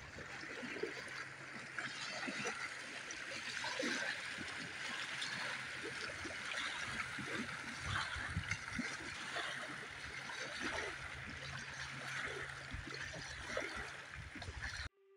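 Small waves lapping and gurgling, with scattered light splashes, around the canoe or along the shoreline. The sound stops abruptly near the end.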